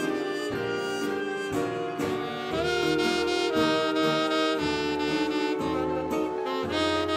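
1930s-style big band dance music played by a live orchestra, with saxophones to the fore over brass and bass. Held chords change every second or so.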